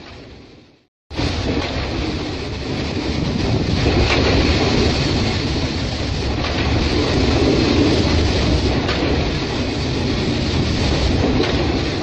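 Freight train of loaded open coal wagons rolling past, wheels clacking and rumbling on the rails, with a steady hiss of water spray over the wagons. The sound fades out and drops away for a moment about a second in, then comes back at full level.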